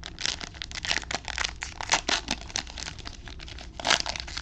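A trading-card pack wrapper being torn open and crinkled in the hands, in a run of irregular crackles.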